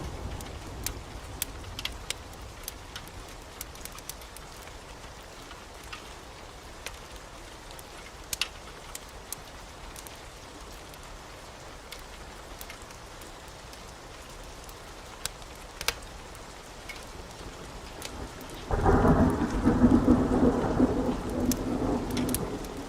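Steady heavy rain with scattered sharp ticks, then a loud roll of thunder breaks in near the end and rumbles on for a few seconds.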